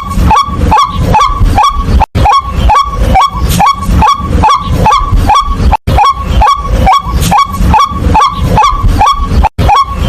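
White-breasted waterhen calling, a fast run of loud, repeated 'kwak' notes, each rising in pitch, about three a second, broken by a short gap about every four seconds.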